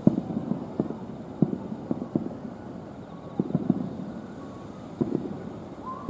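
Fireworks bursting at a distance: an irregular series of dull bangs, sometimes several close together, over a steady background hum.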